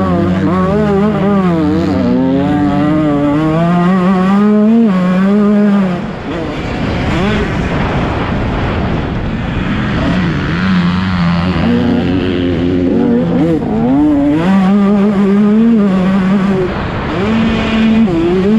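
Motocross bike engine revving hard, its pitch rising and falling again and again as the throttle is worked. The level dips briefly about six seconds in.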